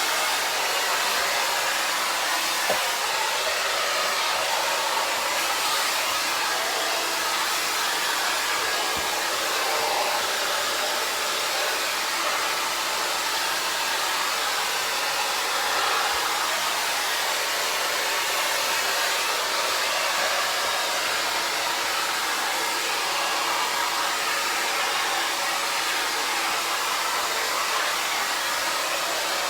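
Hand-held hair dryer blowing steadily while drying a small dog's coat after a bath.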